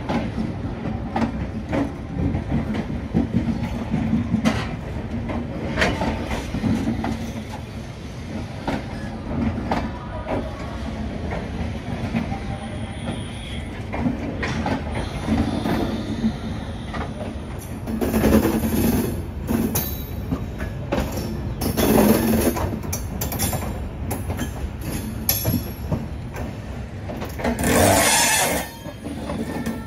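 LHB Tejas passenger coaches of an express train rolling past at close range: a steady low rumble of wheels on rail with repeated short clicks over the rail joints. Three louder surges of rattling noise come a little past halfway, a few seconds later, and near the end.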